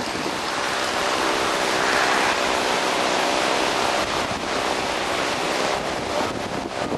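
Strong wind from Hurricane Ike's remnants blowing across the microphone: a loud, steady rush of wind noise that swells a little about two seconds in.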